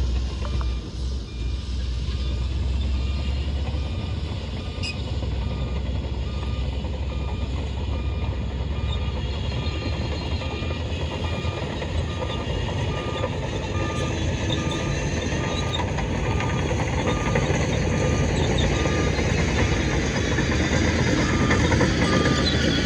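Heavy diesel earthmoving machinery running steadily, with a back-up alarm beeping over it, about three beeps every two seconds.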